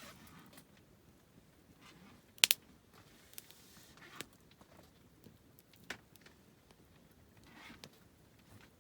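Wood campfire crackling: scattered sharp snaps and pops from the burning wood, the loudest a quick double pop about two and a half seconds in, with a soft hiss of the fire between them.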